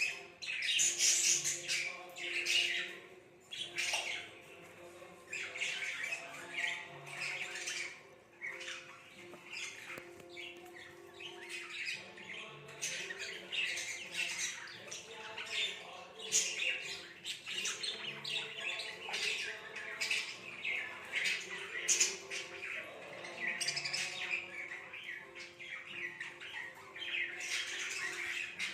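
Baby budgerigars chirping and squawking, a continuous run of short, quick calls.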